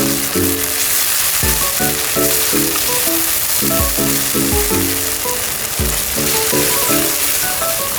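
Food frying in a pan, sizzling steadily, under background music: a tune of short notes over a low beat that falls about once a second.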